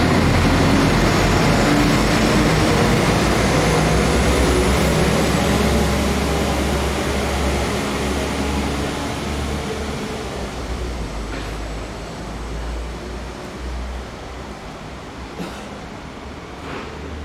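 Diesel train running through the station: a deep engine rumble under a broad rushing wheel-and-rail noise that slowly fades as it moves away, with a few faint clicks in the second half.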